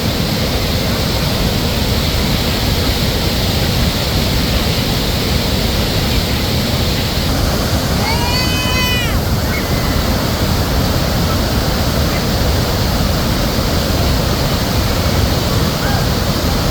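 Waterfall swollen by a dam release: a steady, loud rush of falling water. About eight seconds in, a short high call rises and falls over it.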